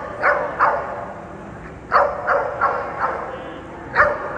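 A dog barking: about seven sharp barks in clusters, two near the start, a run of four about halfway through, and a single bark near the end.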